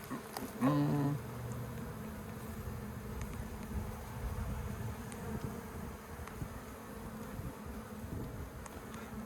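Honeybees from an opened colony buzzing steadily in a swarm around the hive, with one louder buzz briefly about a second in.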